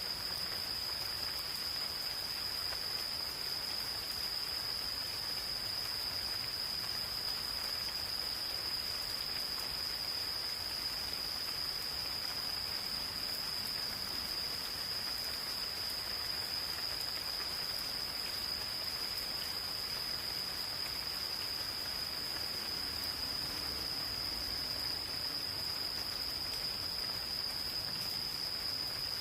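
Insects, crickets or similar, calling in one steady, unbroken high-pitched trill, over light rain falling in a forest.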